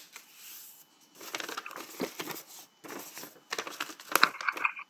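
A sheet of coloured paper rustling and crinkling in several short bursts as it is handled and creased.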